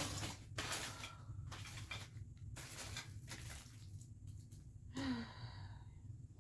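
A series of rustling, handling noises, several short bursts one after another, with a brief pitched sound about five seconds in, over a steady low hum.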